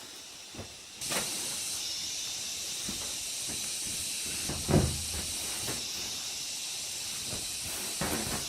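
A steady hiss starts abruptly about a second in and keeps going, with a single loud thump about halfway through and a few lighter knocks.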